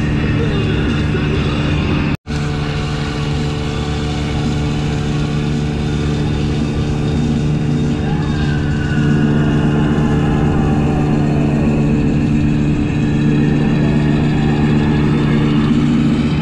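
Gladiator 9.9 hp outboard motor running steadily at constant speed, with a brief dropout about two seconds in.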